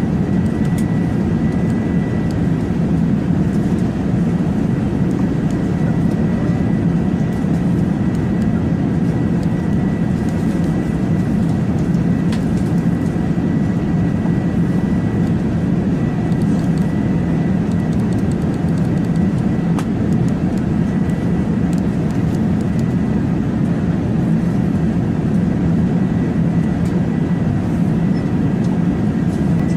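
A steady low drone with a thin, steady high whine above it.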